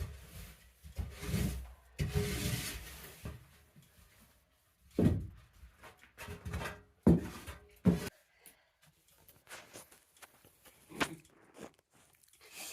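A piglet moving about and rooting in a pen: scattered rustling and several short, sharp thumps, most of them in the middle of the stretch.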